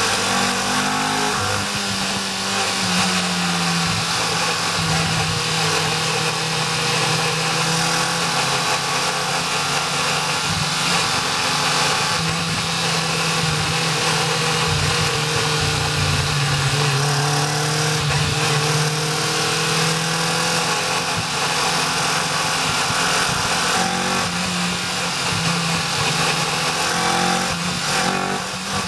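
Caterham R400's engine running steadily in the open cockpit at about 50 to 65 km/h, its note rising and falling gently.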